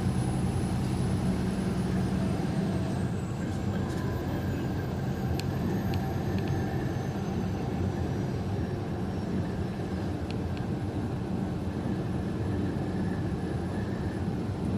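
Truck's engine and road noise heard inside the cab while driving at highway speed: a steady low drone, with a few light clicks about a third of the way in and again past the middle.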